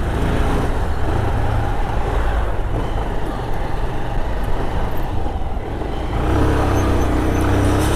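Road traffic and motor vehicle engine noise with a constant low rumble; a steady engine hum rises out of it about six seconds in.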